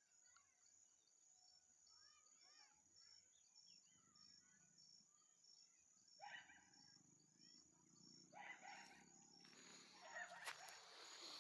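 Faint bird calls: short, arching chirps repeated over natural ambience, with a rustling noise that grows louder over the last few seconds.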